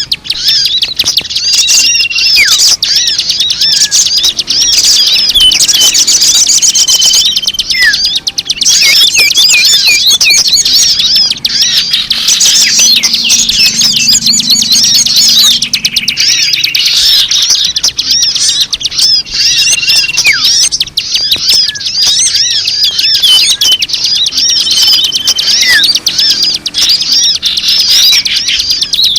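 Dense chorus of many small birds chirping and twittering at once, fast high chirps overlapping with short whistled notes, loud and unbroken: a mixed-species bird-lure recording (pemikat) used to draw wild birds in.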